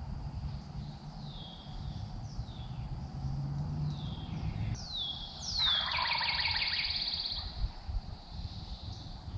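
Songbirds singing: clear whistled notes that slide downward, repeated about once a second. About six seconds in comes a louder rattling trill lasting a second or so.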